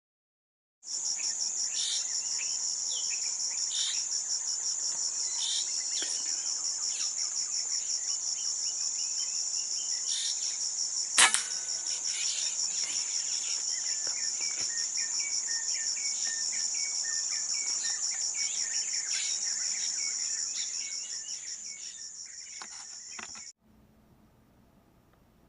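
Steady, high, fast-pulsing insect drone with small birds chirping over it, and a single sharp click about eleven seconds in. The drone fades a little, then cuts off suddenly near the end.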